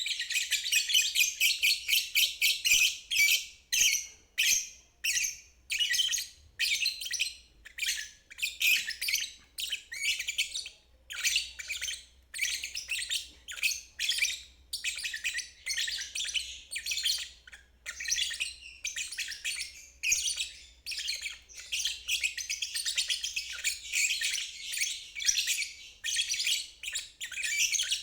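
Lovebird ngeriwik: a long, continuous, high-pitched chattering song. It comes in rapid runs of chirps with only short breaks between them, and it runs nearly unbroken at the start and again near the end.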